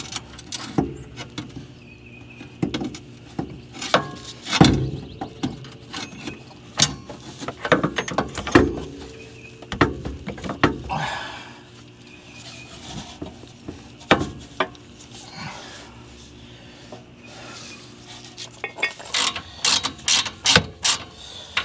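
Hand tools working on metal: irregular clinks, knocks and clicks of wrenches and bolts, with a brief squeak in the middle and a quick run of clicks near the end.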